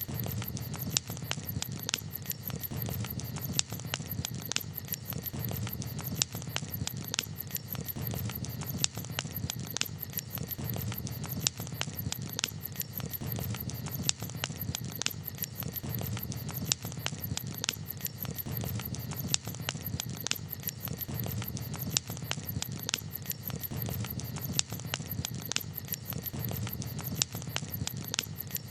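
Wood campfire crackling: frequent sharp, irregular pops and snaps over a steady low rumble of burning.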